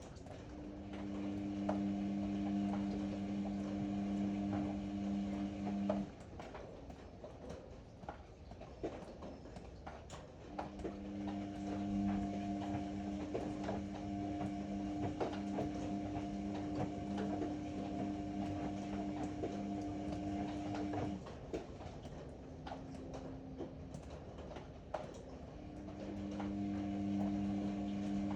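Ariston AML125 washer-dryer's drum motor humming as it turns the drum in runs of several seconds, stopping and starting again twice, with light knocks from the load tumbling in the drum.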